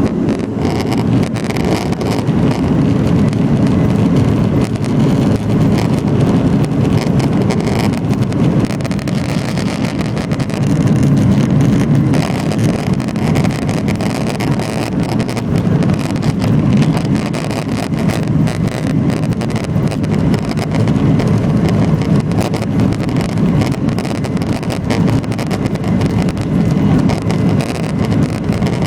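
Cabin noise of a Boeing 737-800 at high thrust during takeoff: its CFM56-7B engines give a loud, steady, deep rumble under a rushing hiss, which swells right at the start.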